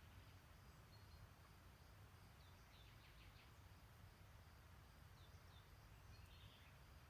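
Faint birdsong: a bird repeats short high chirps, with a quick run of notes about three seconds in and a short trill near the end, over a low steady rumble.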